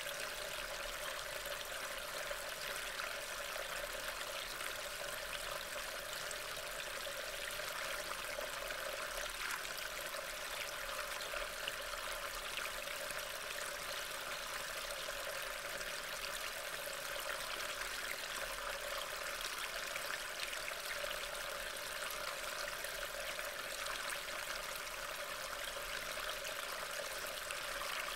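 Steady hiss of rain falling, even and unbroken, with no distinct drops or other events standing out.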